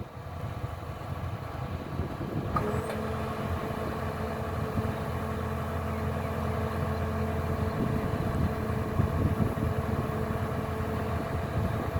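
Kubota DC-105X combine harvester's diesel engine running steadily. A humming tone comes in about two and a half seconds in, and the sound grows slightly louder after that.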